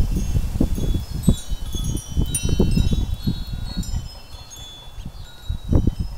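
Wind chimes ringing irregularly in gusty wind, a scatter of high, clear tones that overlap and ring on. Wind buffets the microphone in low rumbling gusts that ease off after about four seconds and pick up again near the end.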